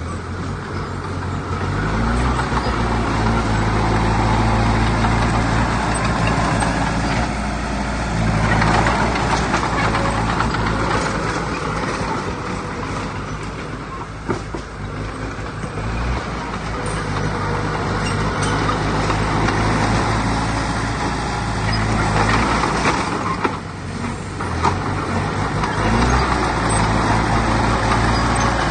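Heavy diesel engines of earthmoving machinery working under load. The deep engine note rises and falls as the load changes, easing off briefly about a third of the way in and again near the end.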